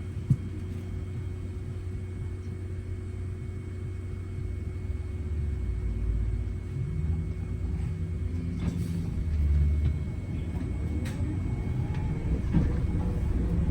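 Gemini 2 hybrid double-decker bus heard from inside while moving: a steady low rumble with a faint constant whine, swelling twice as it pulls along. A single sharp knock just after the start.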